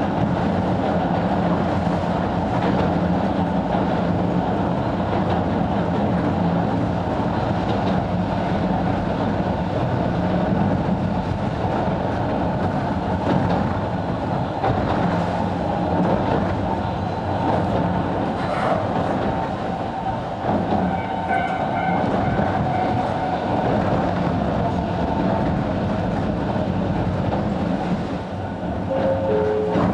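Sangi Railway 270-series narrow-gauge (762 mm) electric train running, heard from on board: a steady rumble of wheels on rail mixed with motor hum.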